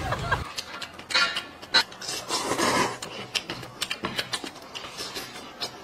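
Eating at the table: scattered clicks and taps of chopsticks against bowls, with a brief rushing sound about two and a half seconds in.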